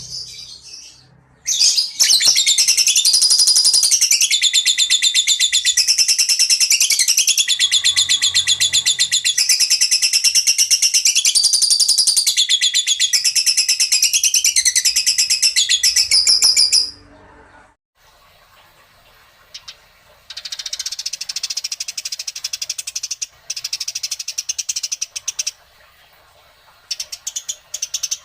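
Recorded songbird song: a loud, fast, continuous high-pitched chattering with rapidly repeated notes that changes pattern every second or so. It stops abruptly about two-thirds of the way in, then comes back as quieter broken bursts of chirps.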